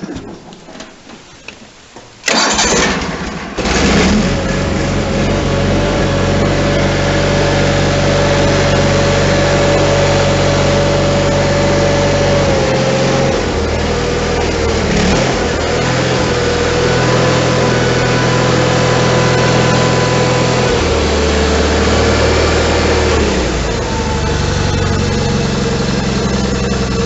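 John Deere 318 garden tractor's Onan twin-cylinder engine catching about two seconds in on a cold start, stumbling briefly, then running steadily on some choke, its speed shifting a few times.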